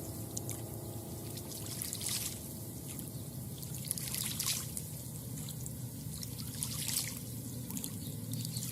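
Lake water lapping and trickling at the shoreline, with a few brighter splashes at irregular intervals.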